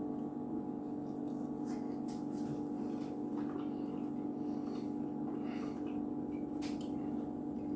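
A steady low hum, with a few faint soft mouth clicks and smacks from someone chewing a bite of beef.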